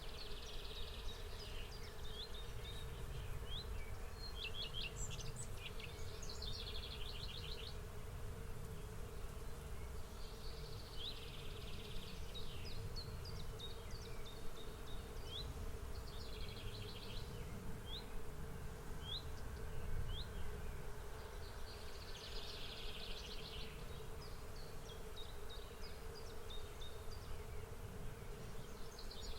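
Outdoor nature ambience: insects trilling in repeated bursts of a second or two, with short high bird chirps in between. Under it run a steady hum and a low rumble.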